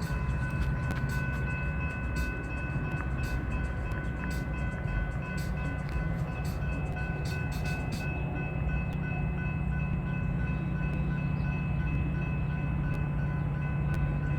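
A train running past on the rails with a steady low drone, a faint steady high whine, and a run of sharp clicks that stop about eight seconds in.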